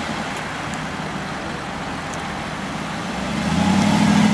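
Car engine running as the convertible drives off, getting louder about three seconds in.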